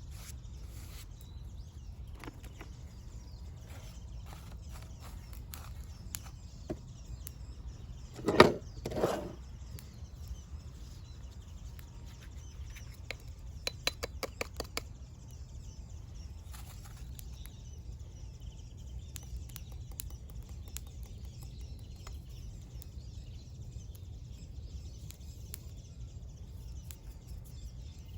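Open-air ambience with a steady low rumble; about eight seconds in, two loud bird calls follow each other quickly, and a little later comes a quick run of ticks.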